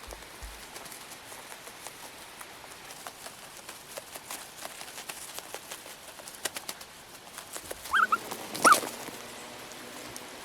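A small animal gives three short, high whining cries near the end, the last the loudest, over a steady hiss scattered with faint clicks.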